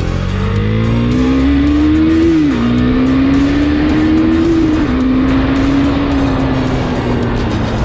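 Husqvarna Svartpilen 401's single-cylinder engine accelerating under load. Its pitch rises and falls with upshifts about two and a half and five seconds in, then holds a steady cruise.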